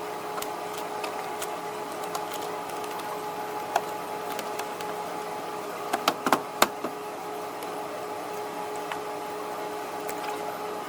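Steady background hum with scattered light clicks and taps, and a quick run of sharp clicks about six seconds in, from handling parts during the work.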